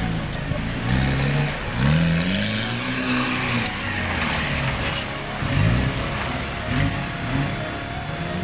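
Off-road 4x4's engine revving up and down over and over, its pitch rising and falling in a string of short surges, with a longer swell a couple of seconds in.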